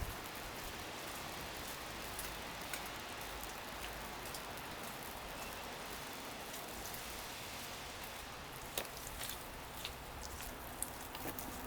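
Falling wet snow pattering steadily on surfaces, with scattered small ticks and one sharper click about nine seconds in.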